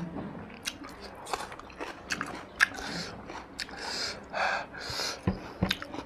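Close-up mouth sounds of a man chewing a mouthful of rice and mutton, with many sharp smacking clicks and a few short hissy sucking sounds about two-thirds of the way in.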